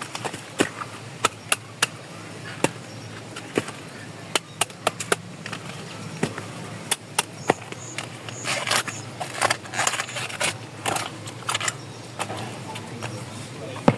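Cooking-utensil sounds: irregular sharp knocks and clicks, with longer, rougher noises in the second half.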